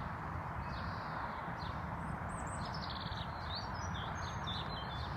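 Small birds chirping and singing, many short calls and trills, over steady background noise.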